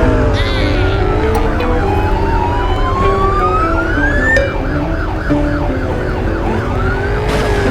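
Several sirens sounding at once: slow wails rising and falling across each other, with a fast yelping siren cycling about four times a second over a steady low hum.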